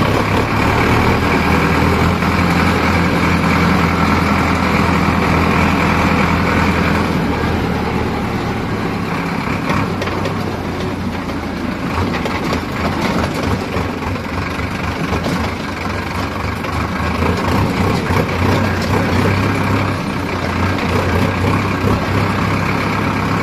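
JCB 3DX backhoe loader's diesel engine running loudly while working, easing off about eight seconds in and picking up again around sixteen seconds.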